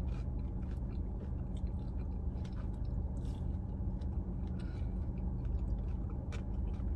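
A person chewing a mouthful of fish sandwich with lettuce: soft, wet chewing broken by many small crunchy clicks. A steady low hum runs underneath.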